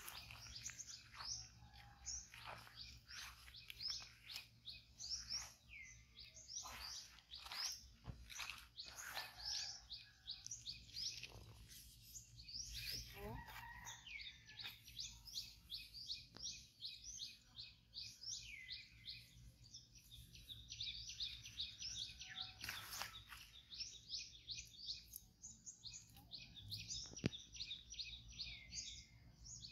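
Small birds chirping throughout, in runs of many quick high notes, with a few faint rustles and one sharp click near the end.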